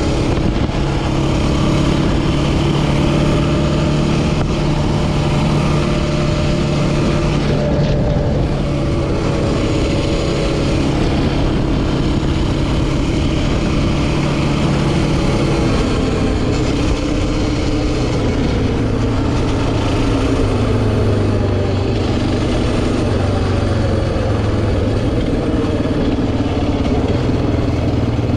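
Yamaha Raptor 700R quad's single-cylinder four-stroke engine running at a steady pitch, which drops to a lower steady pitch about halfway through.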